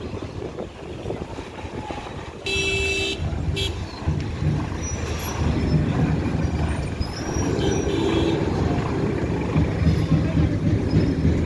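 A heavy vehicle's engine rumbling, with a horn toot about two and a half seconds in, lasting under a second, followed by a short second toot. The rumble grows louder partway through.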